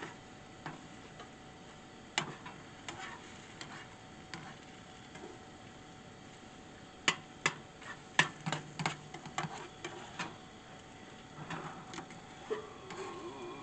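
Scattered sharp clicks and taps of a cooking utensil against a pan, a few spread out early and a quick cluster about seven to nine seconds in.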